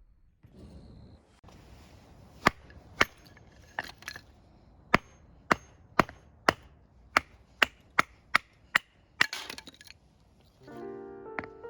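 A series of about a dozen sharp chopping blows on wood, roughly one to two a second, with background music starting near the end.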